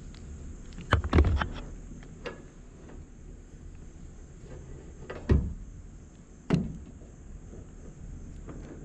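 A few separate knocks and thumps, a quick cluster about a second in, then two single knocks some four and five seconds later.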